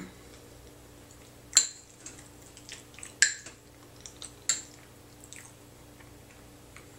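A metal utensil clinking against a dish three times, each strike ringing briefly at a high pitch, with lighter taps and scrapes between.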